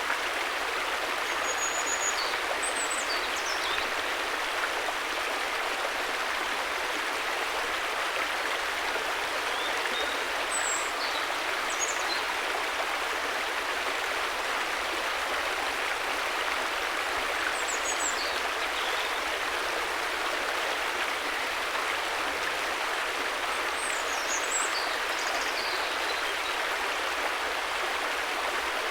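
River water flowing in a steady, unbroken rush. A few faint, short high chirps come through it now and then.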